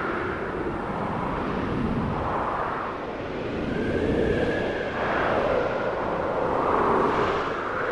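Snowstorm wind howling and gusting, a rushing noise with whistling tones that rise and fall in pitch every second or two.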